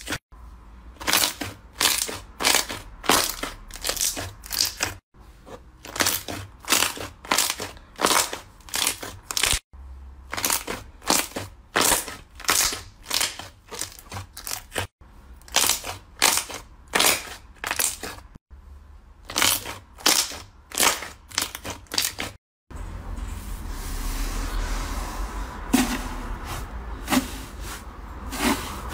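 Crunchy slime being squeezed and pressed by hand: a series of crisp crackling crunches, about two a second, across several short clips. Near the end it changes to a softer, steadier sticky rustling with a few small pops.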